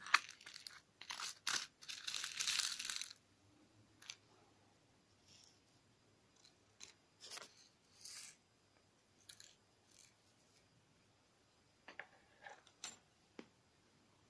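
Clear slime mixed with crunchy sand being worked and pressed, giving crackling, crunching sounds: a dense run of crunching about two to three seconds in, then scattered pops and crackles.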